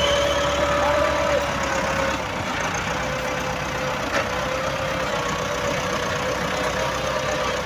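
Tractor diesel engine running steadily with a slightly wavering whine, while the tractor works to pull a sand-laden trolley stuck in the riverbed.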